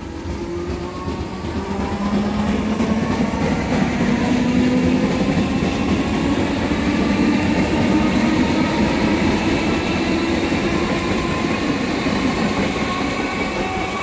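Electric train running along the platform, its motor whine slowly rising in pitch as it picks up speed, over the rumble of wheels on the rails. It grows louder about two seconds in and stays loud.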